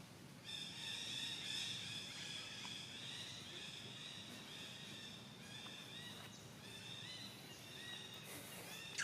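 A chorus of many high-pitched animal peeps or chirps, overlapping and continuous, starting about half a second in.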